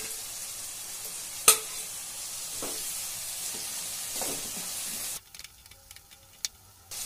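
Onions, peas and tomato sizzling in oil in a steel kadai while a perforated steel ladle stirs them, with one sharp clink of the ladle about a second and a half in. The sizzle cuts off abruptly about five seconds in, leaving near quiet with a single faint tap, and comes back at the very end.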